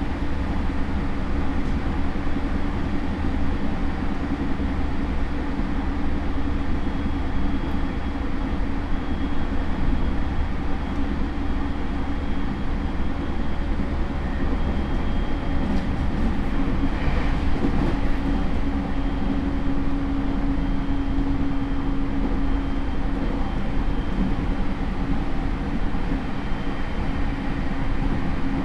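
JR East E231 series electric train running at speed, heard from inside motor car MoHa E231-1067: a steady rumble of wheels on the rails with a level hum from the Hitachi IGBT inverter and traction motors. A short burst of extra noise comes about 17 seconds in.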